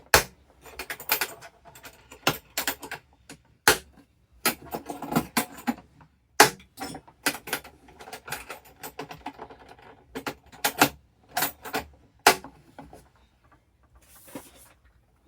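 Irregular clicks, knocks and light clatter of a steel plane blade and sharpening gear being handled on a bench, with a few short scraping sounds in between.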